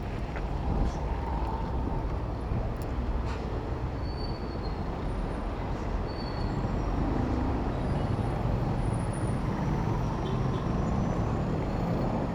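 City road traffic heard from a bicycle: a steady rumble of vehicle engines and tyres, with a few faint short high tones.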